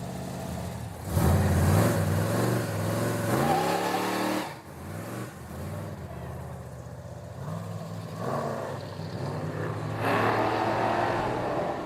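Car engine running and revving: it swells about a second in, its pitch rises around three to four seconds in, it settles back, and it swells again near the end.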